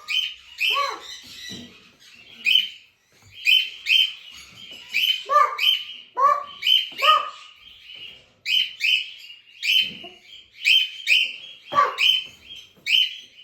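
Parrots chirping and squawking, short sharp calls repeating about once or twice a second with no let-up.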